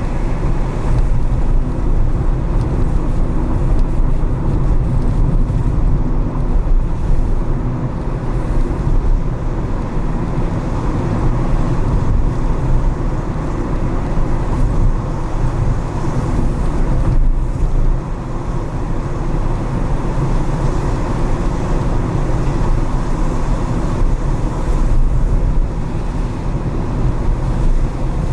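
A car driving through city streets after rain, with steady engine and road noise weighted to the low end.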